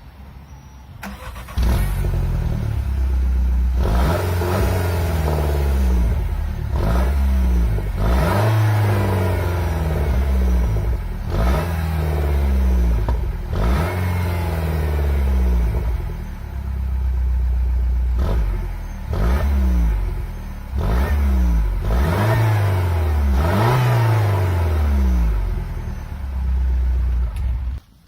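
Peugeot 208 GTI's 1.6-litre turbocharged four-cylinder on its standard exhaust and air intake, starting from cold about a second and a half in. It is then revved again and again, the engine note rising and falling with each blip, and cuts off abruptly near the end.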